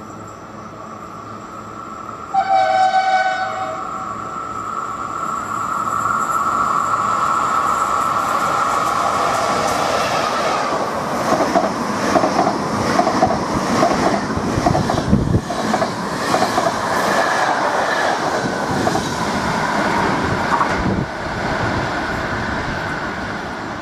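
An electric passenger train gives one short horn blast, then passes through the station: a steady whine and rumble build as it approaches, then the cars go by with a rhythmic clatter of wheels over the rail joints. The sound drops suddenly near the end.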